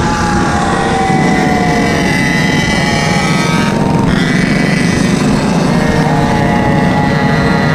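Small engine of a Goped or mini bike running under way on a ride, its pitch sagging slightly at first, easing off briefly a little past the middle and then pulling again.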